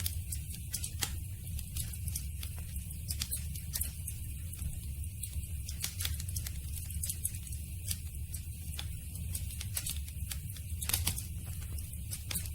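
Campfire crackling: irregular pops and snaps over a steady low rumble, with a louder pop about eleven seconds in.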